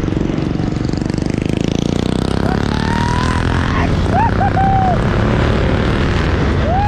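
Motorcycle engine running steadily under way. Several short whistle-like tones rise and fall over it in the middle, and another comes near the end.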